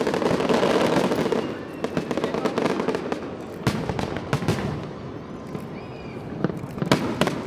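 Aerial firework shells bursting: a dense, continuous crackle of many bursts at first, thinning after about a second and a half to separate sharp bangs, the strongest of them near the end.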